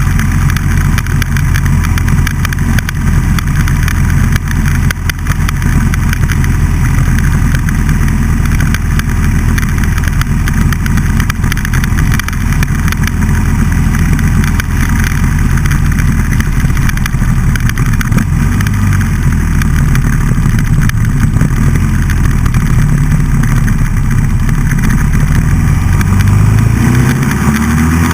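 Buell XB12SCG's 1203 cc air-cooled V-twin running steadily under way, recorded loud and rough with a rushing noise over it. Near the end the engine note rises as it accelerates.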